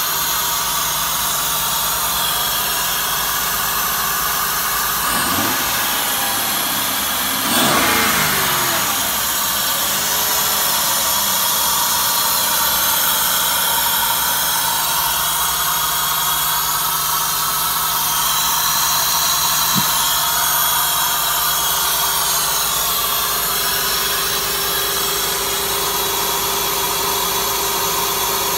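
2002 Honda Odyssey's 3.5-litre V6 running at idle under the open hood, steady apart from two brief revs: a small blip about five seconds in and a bigger one a couple of seconds later that rises and falls back to idle.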